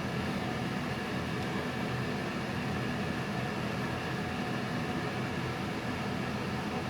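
Steady low mechanical hum and rumble with a constant noise over it, unchanging throughout, with no knocks or clicks.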